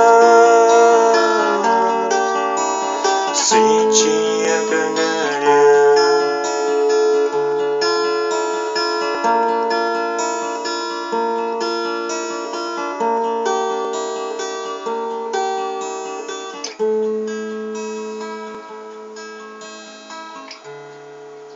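Acoustic guitar playing strummed chords as an instrumental outro, slowly getting quieter toward the end.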